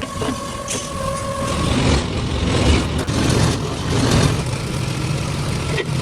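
Workshop machinery running with a dense, steady low drone, with a thin steady whine over it for the first second and a half or so.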